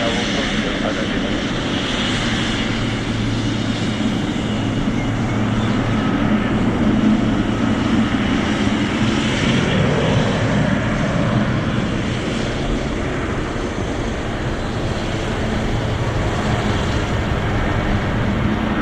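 Airliner engines running as a steady noise, swelling slightly about seven seconds in.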